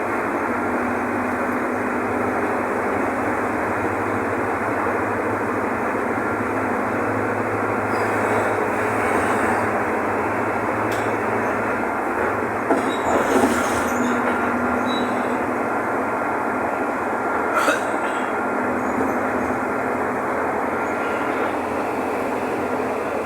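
Mercedes-Benz OF-1519 diesel city bus under way, heard from inside the bus: steady engine and road rumble with rattling. There is a brief louder rattle about thirteen seconds in and a sharp knock a few seconds later.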